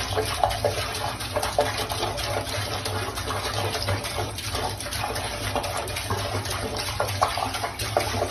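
Running water: a steady rush with a few faint clicks, cutting off abruptly at the end.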